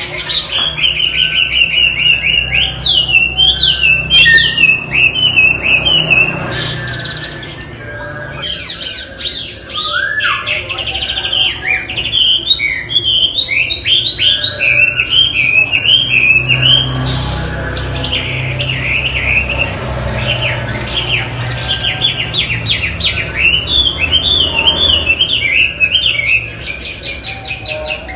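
Chinese hwamei (wambi) singing in full voice: a long, continuous run of rapid, varied whistled notes and phrases, softening briefly about eight seconds in before running on.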